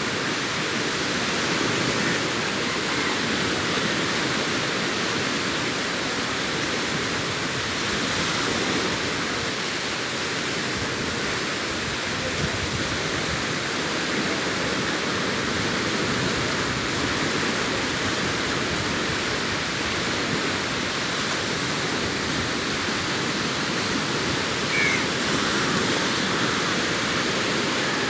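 Sea surf breaking on a beach: a steady, unbroken wash of waves with gentle swells in level. A short, faint high chirp comes near the end.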